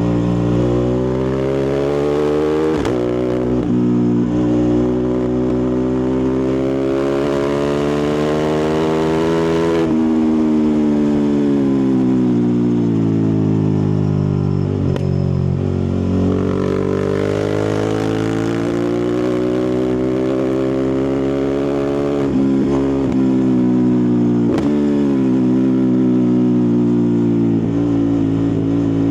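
Ducati Multistrada 1260 Pikes Peak's Testastretta V-twin engine and exhaust running under way. The note climbs slowly in pitch for about ten seconds, drops sharply, sinks for several seconds, then climbs again, with a few brief sharp dips along the way.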